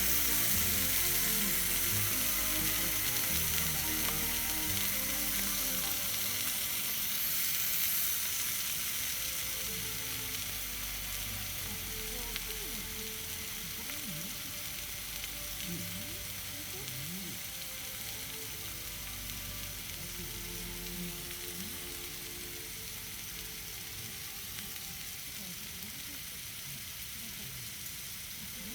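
Steak sizzling in a hot cast-iron skillet, just laid in the pan. The sizzle is loudest at first and slowly dies down after about eight seconds.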